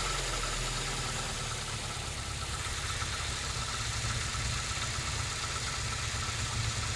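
Hyundai Getz 1.4-litre four-cylinder petrol engine idling cold. The sound eases off slightly over the first couple of seconds, then holds at a steady, even idle.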